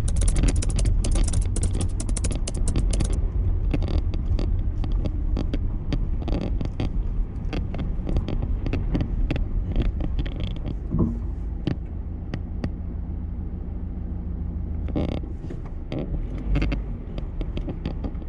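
A steady low rumble with scattered clicks and knocks through it.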